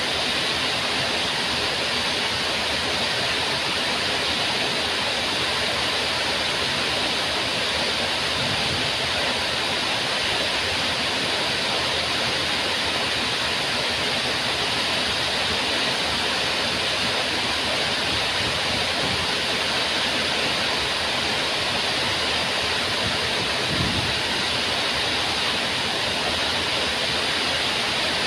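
Waterfall, a steady, dense rush of falling water, with one brief low thump near the end.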